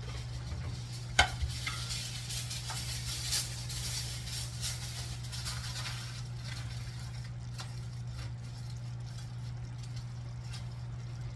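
Aluminium foil crinkling as it is wrapped around a pot lid's wooden handle, with a sharp click about a second in. The crinkling thins out after the first half, over a steady low hum.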